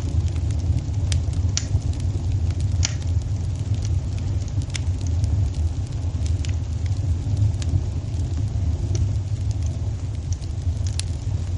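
Wood fire crackling in a fireplace: a steady low rumble of burning with sharp pops scattered about once a second.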